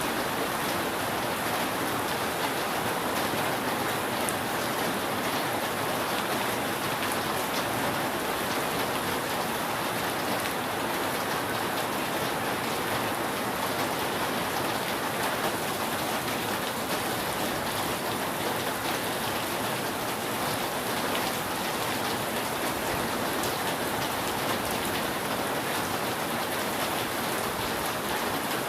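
Steady rain pattering on a roof, an even hiss of drops with no thunder heard.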